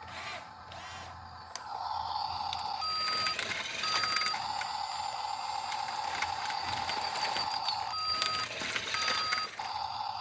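RC construction machine running with a steady high electric whine that starts about a second and a half in. The whine is broken four times by short electronic beeps, two pairs about half a second each.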